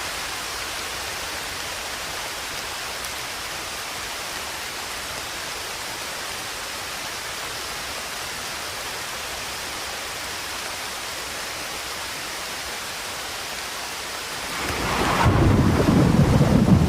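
Steady rain falling with an even hiss, then near the end a rumble of thunder swells in and becomes much louder than the rain.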